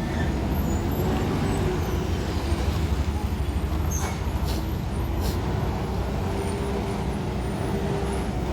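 Heavy diesel truck engine running with a steady low rumble, with a few brief sharp sounds about four to five seconds in.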